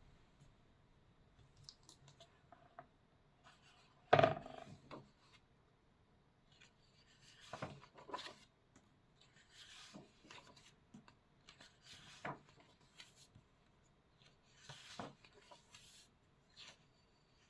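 Paper being handled: a series of short rustles and rubs, the loudest about four seconds in.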